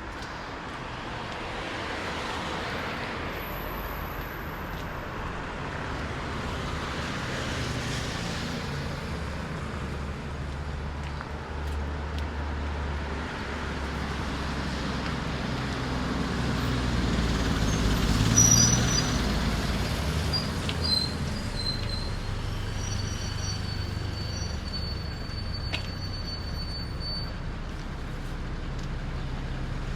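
Street traffic: motor vehicles running past on a city road, building to a loudest pass about 18 seconds in, with a few thin high squealing tones in the second half.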